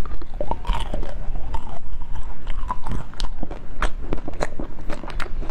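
Biting and chewing frozen food close to a clip-on microphone: a rapid, irregular run of sharp crunches and clicks.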